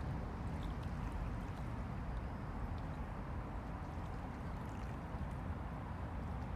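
Small Han River waves lapping at the shore: a steady wash of water with faint splashes, over a low steady rumble.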